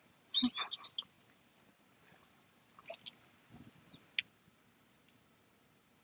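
A short bird call about half a second in, then a few sharp clicks around three and four seconds in.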